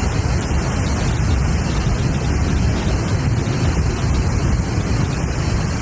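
Strong storm wind buffeting the microphone: a loud, steady rushing noise with a deep, fluttering rumble.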